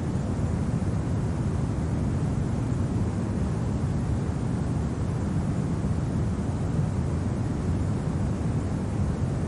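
Steady low wind: a deep, even rush with no gusts, tones or clicks.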